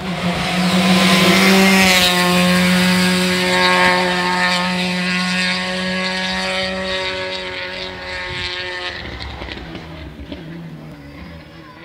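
Rally car engine held at steady high revs as the car drives away, its sound slowly fading out over several seconds.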